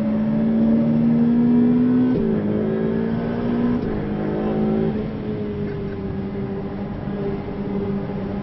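Ferrari 488 Pista's twin-turbo V8 pulling under load, heard from inside the cabin. Its pitch climbs, then drops sharply at two quick gearchanges about two and four seconds in. After about five seconds it runs steadier and a little quieter.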